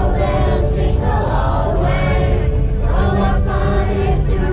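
A group of train passengers singing a Christmas song together with music, over a steady low rumble from the moving train.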